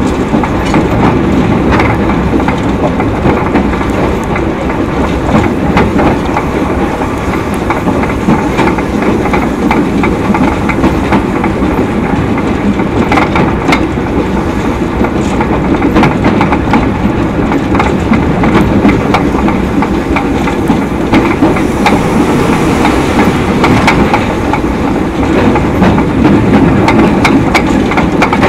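A 2 ft narrow-gauge train hauled by a wood-fired steam locomotive, running along the line: a steady, loud rumble with the wheels clicking over the rail joints.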